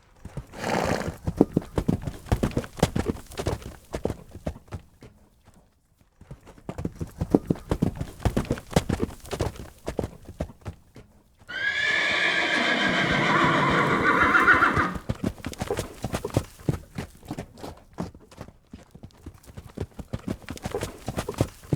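Horse hoofbeats at a run, in rapid clatters with a short pause about five seconds in. About halfway through, a horse gives one long whinny lasting roughly three seconds, then the hoofbeats go on.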